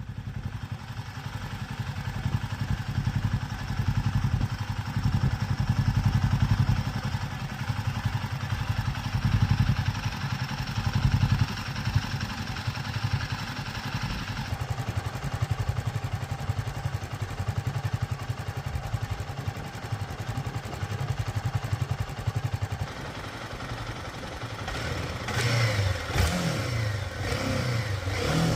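Royal Enfield Himalayan 450's single-cylinder engine running steadily, with the revs rising and falling in the last few seconds.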